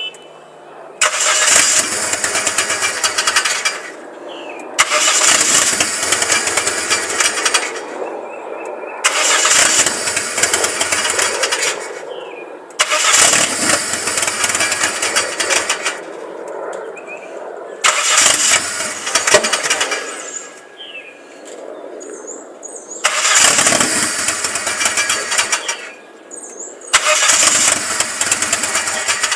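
Saturn SW2's 1.9-litre twin-cam four-cylinder engine running with a misfire, revved up seven times for two to three seconds each and dropping back to idle in between. The owner has found oil on the plugs of cylinders 2 and 4 and suspects a leaking valve cover gasket.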